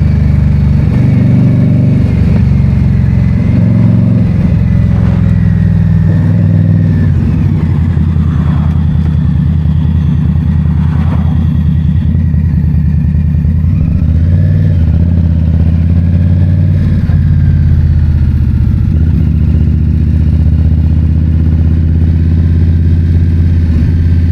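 2022 Indian Scout Bobber's V-twin engine running loud and steady; its note shifts over the first seven seconds or so, then holds mostly even.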